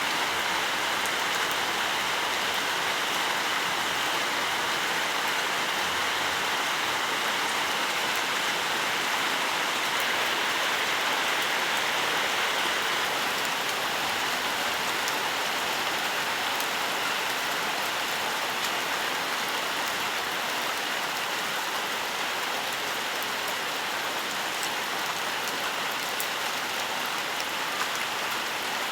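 Steady rainfall, a continuous even hiss of rain with faint scattered drop ticks.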